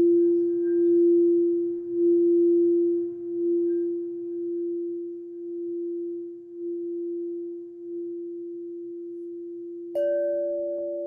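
Singing bowl ringing with one steady tone that wavers in loudness about once a second and slowly fades. Near the end a second, higher-pitched bowl is struck and rings out.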